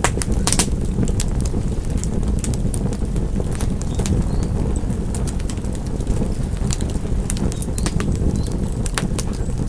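Wood fire crackling: a steady low rumble of burning with sharp pops and snaps scattered through it, a cluster near the start and several more near the end.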